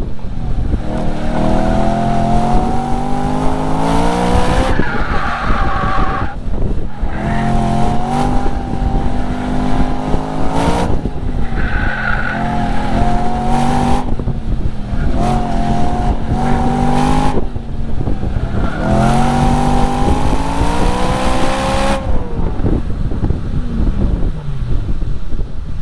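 Car engine heard from inside the cabin on an autocross run, repeatedly rising in pitch under acceleration and dropping sharply as the throttle is lifted between cone sections, with brief tyre squeal at times. Near the end the engine note falls away as the car slows.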